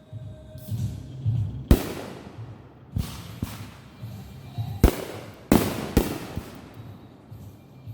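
Backyard fireworks going off: about six sharp bangs at irregular intervals, each trailing off briefly, with a low rumble between them.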